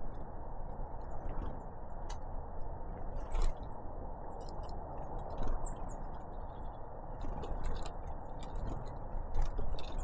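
Great tits and blue tits pecking and scrabbling at seed on a feeder: many sharp ticks and taps, thicker in the last few seconds, over a steady low background rumble.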